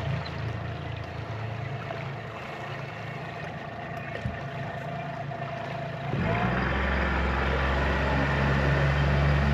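Motorboat engine running steadily, then getting louder and deeper about six seconds in as it is throttled up.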